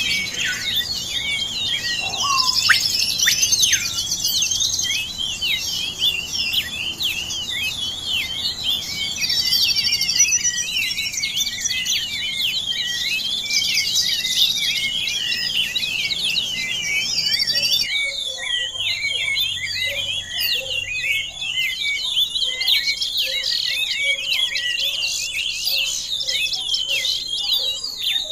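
Many birds chirping and calling at once: a dense chorus of rapid, overlapping short chirps and quick whistles, high in pitch. The background hum drops away about two-thirds of the way through, as if a new recording begins, but the chirping carries on.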